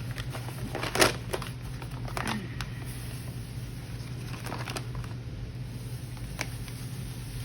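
Measuring white sugar with a half-cup measuring cup, scooping and pouring it: a few short scrapes and knocks, the loudest about a second in, over a steady low hum.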